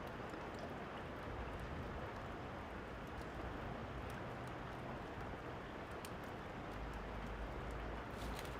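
Steady rain with sparse, sharp crackles of a wood fire over it. A low thunder rumble starts building near the end.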